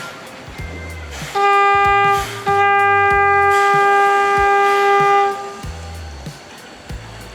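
Steam locomotive whistle blowing twice, a short blast then a long one of about three seconds, over background music.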